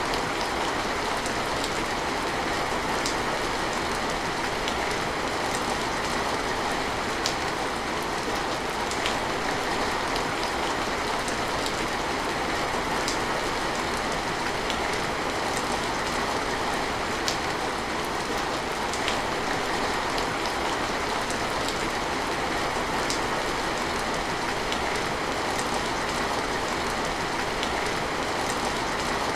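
Steady rain: an even hiss of rainfall with a sharp drip tick every second or two.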